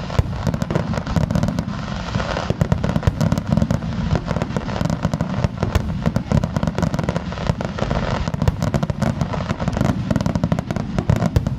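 Aerial fireworks going off in a rapid, continuous barrage: many sharp bangs and pops in quick succession over a steady low rumble.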